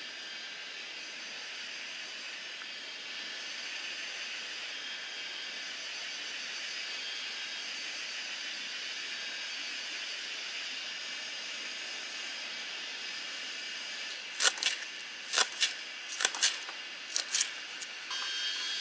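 A steady high hiss, then about eight sharp clicks or knocks spread over the last few seconds.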